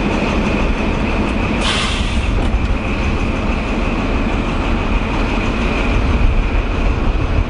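InterCity 125 high-speed train with its diesel power cars running: a loud, steady heavy rumble with a steady high whine over it. A short hiss cuts in about one and a half seconds in.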